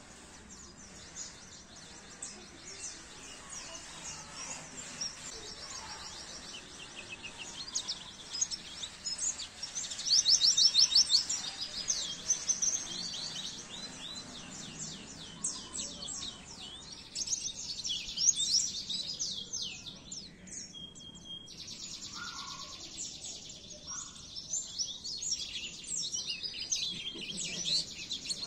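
White-eye (pleci) song: rapid, high, chattering trills of fast repeated chirps, loudest about ten seconds in and again around eighteen seconds.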